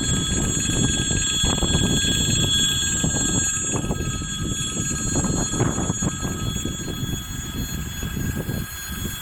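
A train running past on the track: a heavy steady rumble with scattered clacks from the wheels, easing slightly near the end. Steady high-pitched tones ring over it the whole time.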